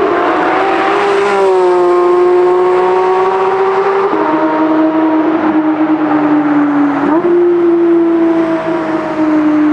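A sports car's engine running loud at steady revs, its note stepping down about four seconds in and back up about seven seconds in.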